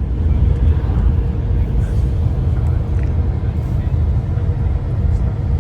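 Steady low rumble of a road vehicle on the move, with a faint steady hum above it.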